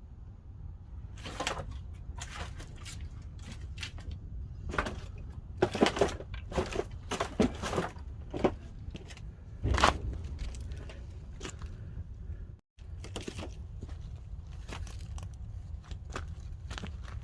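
Pine firewood burning in the firebox of a wood-fired kiln: irregular sharp crackles and pops over a steady low rumble, most frequent in the first ten seconds.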